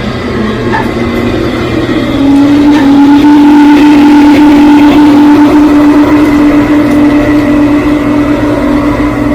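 Model train running on its track, with a loud steady whining tone that comes in about two seconds in and holds at one pitch.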